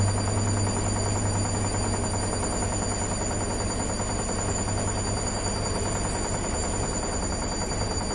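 Washing machine running steadily, with a constant low hum, a fast even rattle and a faint high whine.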